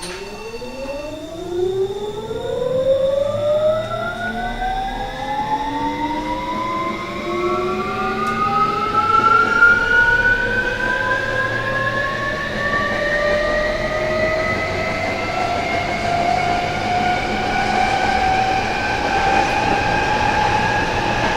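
Traction motors and Hitachi full-SiC VVVF inverter of a Tokyo Metro 07 series car whining as the train accelerates. A few steady high tones stop about a second in, then several tones rise together in pitch, climbing steadily and slowing their rise, over the rumble of the train running.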